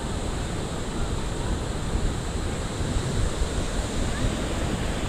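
Ocean surf washing ashore, with wind buffeting the microphone in a steady rumble.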